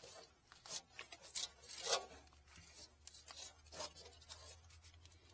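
Paper napkins rustling and crinkling as they are handled and set down, in short irregular scratchy bursts, with a faint steady low hum underneath.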